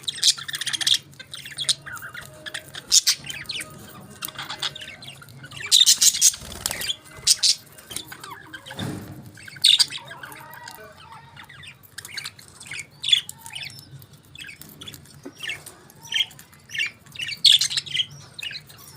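Budgerigars chirping and squawking: short, high, sharp calls in irregular clusters, with a faint steady low hum underneath.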